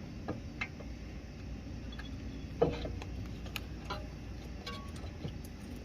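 Scattered light metallic clicks and taps from brake parts and tools being handled during a brake job, with one louder knock about two and a half seconds in.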